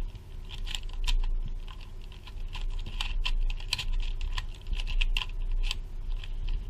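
2x3x3 cuboid twisty puzzle being turned rapidly in a speedsolve: a fast, irregular run of plastic clicks and clacks as the layers turn.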